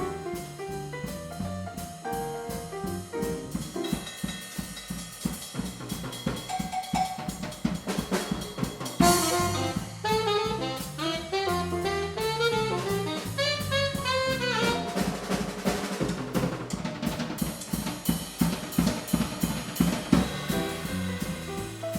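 Live jazz combo playing a swing tune, the drum kit prominent over a stepping bass line. A loud cymbal crash comes about nine seconds in, followed by a few seconds of quick melodic runs from a lead instrument.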